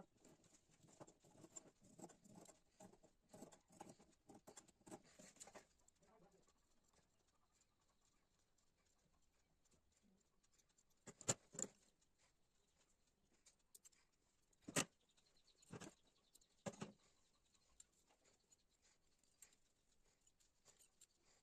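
Faint handling noises: soft rustling and pattering for about six seconds, then quiet broken by four sharp clicks.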